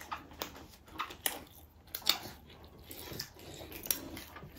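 Close-up eating sounds: chewing and biting, with a dozen or so short, crisp clicks and smacks scattered through.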